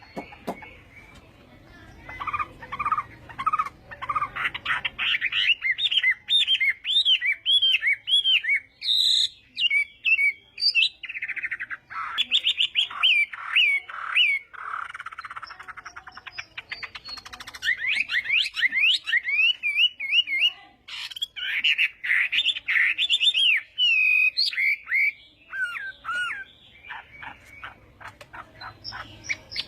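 Chinese hwamei singing a long, varied song of rapid whistled phrases, slurred notes and trills, broken by brief pauses.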